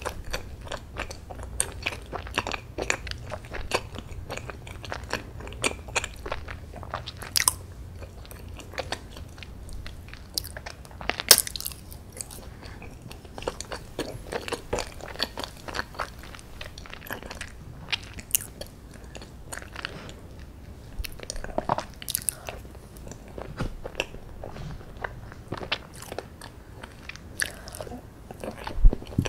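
Chewing and biting of a fudgy chocolate brownie and chocolate ice cream, a run of many short, sharp mouth clicks.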